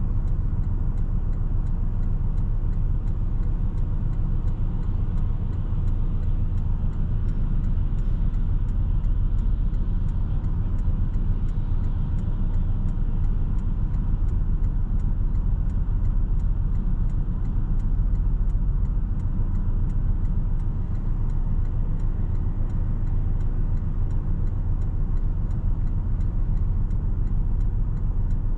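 Porsche 718 Boxster S's turbocharged flat-four running at a steady engine speed while driving, over a constant low rumble of engine and road noise.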